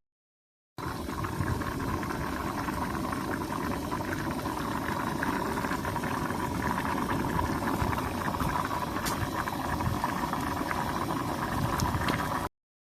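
Pot bubbling at a steady boil over a campfire, with a few sharp crackles from the fire.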